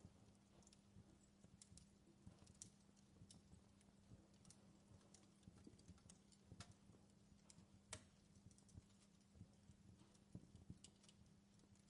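Wood fire in a fireplace crackling quietly: irregular sharp pops and snaps over a low steady hum.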